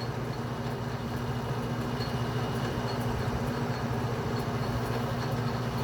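Atlas metal lathe running steadily, a constant hum from its motor and drive.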